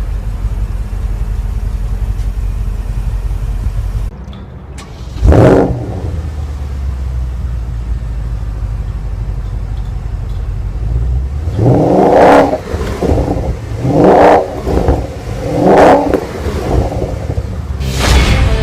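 2014 Porsche Panamera GTS's V8 engine and exhaust. It runs steadily, cuts out briefly about four seconds in, then starts with a loud rising flare and settles to idle. Near the end it is revved in three sharp blips, followed by a few smaller ones and one more.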